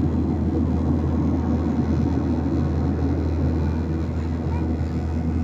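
Steady drone of an airliner heard from inside the passenger cabin: jet engine and airflow noise, a constant low hum under an even rush.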